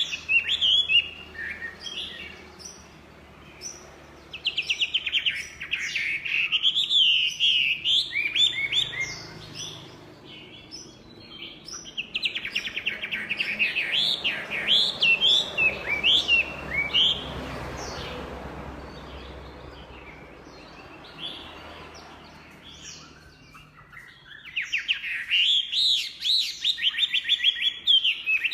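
Chinese hwamei (melodious laughingthrush) singing: loud phrases of rapid, repeated whistled notes and slurs, broken by pauses. There is one long quieter gap past the middle before the song resumes near the end.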